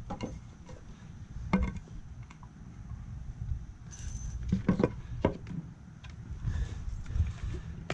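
Scattered metallic clinks and light knocks from handling screws and 2x4 boards, over a steady low rumble.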